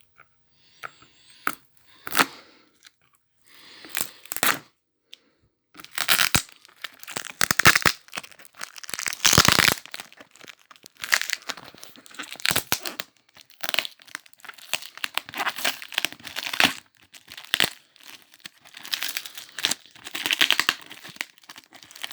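Box packaging being torn open and crumpled: irregular ripping and crinkling in short bursts, sparse at first and then busier and louder from about six seconds in.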